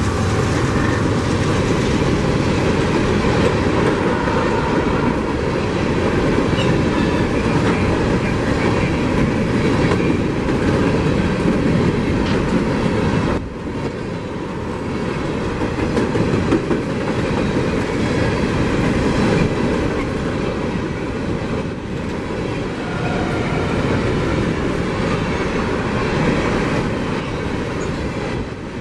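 A train rolling past at close range: a steady, loud rumble of wheels on rail as the cars go by, dipping briefly about halfway through.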